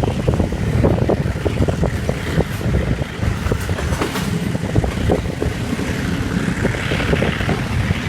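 Passenger train running along the line: a steady low rumble with irregular clacking of wheels over the rail joints, and a rushing hiss of wind that swells near the end.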